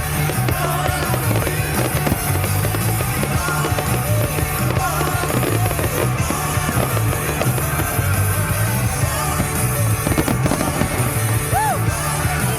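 Loud music with a heavy, steady bass, with fireworks going off over it and a few sharper bangs now and then.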